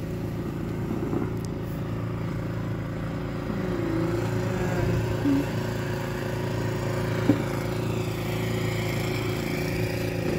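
An engine running steadily, with one sharp knock about seven seconds in.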